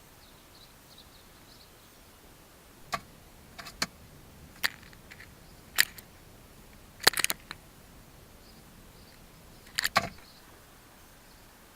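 A bird pecking, a series of sharp irregular taps and knocks starting about three seconds in, some in quick pairs, with faint high chirps of birdsong in the background.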